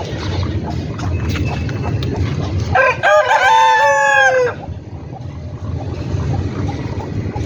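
Leghorn rooster crowing once, about three seconds in, a single call of nearly two seconds that rises, holds and falls away at the end, over a steady low background noise.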